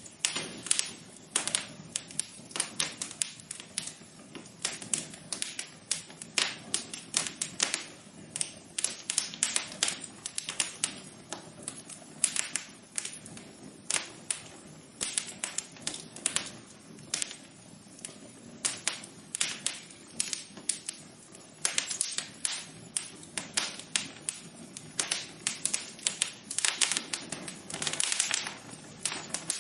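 Wood fire crackling: dense, irregular pops and snaps, several a second, over a soft low steady background.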